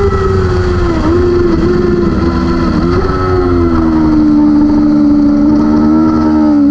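600cc superbike racing motorcycle engine. Its revs fall at first and dip briefly several times at gear changes, then it holds a steady pitch under load. A short dip at another gear change comes right at the end.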